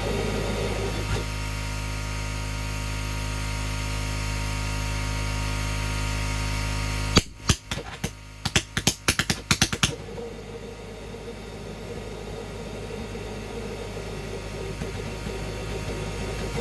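Homemade propane-air combustion chamber burning with a steady rushing sound and low hum. About seven seconds in comes a rapid, irregular string of sharp pops lasting about three seconds, as the burner is throttled down. After that the burning goes on, quieter.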